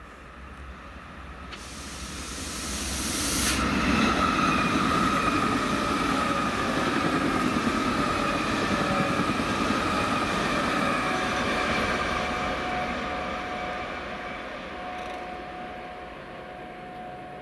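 ČD class 680 Pendolino electric tilting train passing at speed: a rush of wheels on rail that swells, stays loud for several seconds as it goes by, then fades. A few high whining tones drop slightly in pitch as it passes.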